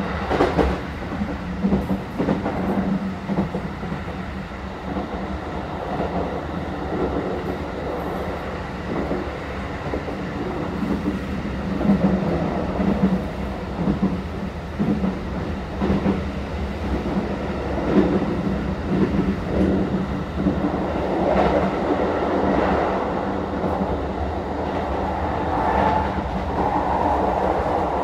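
Interior running noise of a Keikyu 1000-series electric train in motion: a steady rumble of wheels on rail with occasional clacks, growing louder and rougher over the last several seconds.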